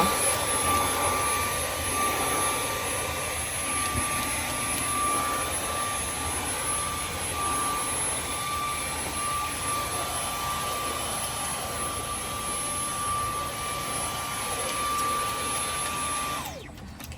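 Dyson vacuum cleaner with a dog grooming attachment running steadily with a high whine over a rushing air noise while it is drawn through a German Shepherd's shedding undercoat; it switches off near the end.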